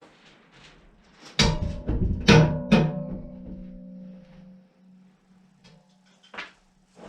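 Four quick hammer blows on the steel of a large circular sawmill blade, each leaving the blade ringing with steady tones that fade out over a couple of seconds. A few lighter knocks follow near the end.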